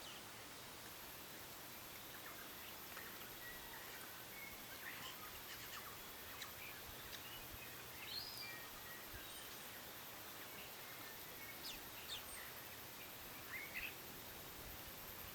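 Faint scattered bird chirps and short calls over a steady background hiss, with a thin, very high steady whine that starts about a second in.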